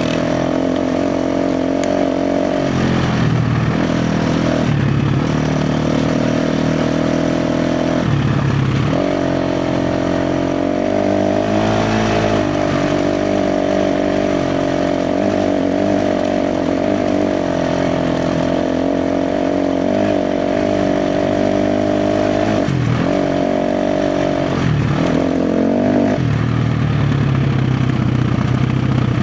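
KTM 350 XC-F dirt bike's single-cylinder four-stroke engine running under a rider's throttle on a trail ride, its pitch stepping up and down several times as the revs and gears change, with a long stretch held at steady revs in the middle.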